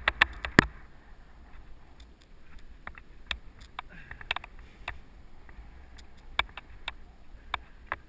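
Mountain bike clattering over a rough dirt trail: sharp clacks and rattles from the bike, a quick run of four or five in the first second, then scattered single ones, over a steady low rumble of wind on the helmet camera's microphone.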